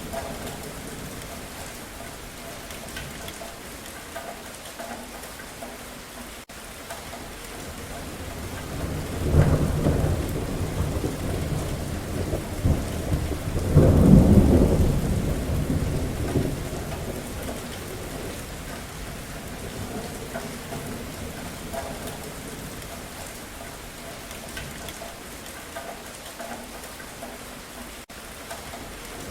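Steady rain with two rolls of thunder, the first about nine seconds in and a louder one about fourteen seconds in, each fading away over several seconds; more thunder begins building near the end.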